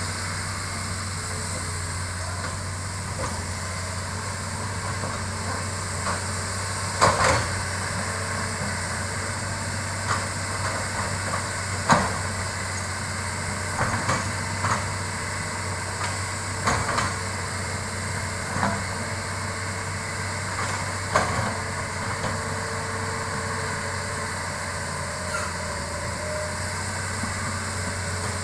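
Hitachi hydraulic excavator's diesel engine running steadily, with a scatter of short, sharp knocks and cracks as it works, the loudest about seven and twelve seconds in.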